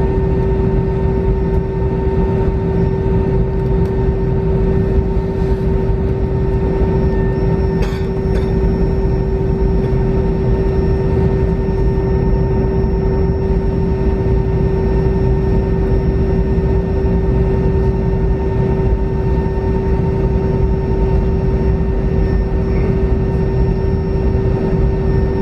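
Airliner cabin noise during taxi after landing: a steady rush of engine and air-conditioning noise with a constant humming tone running through it, and a couple of faint clicks about eight seconds in.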